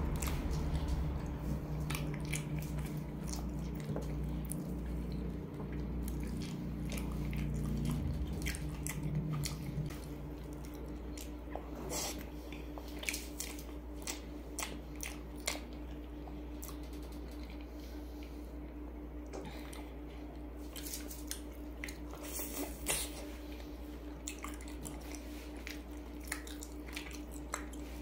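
Close-miked chewing of grilled Vietnamese pork sausage (nem nướng), with many wet mouth clicks and smacks scattered throughout. A steady low hum runs underneath.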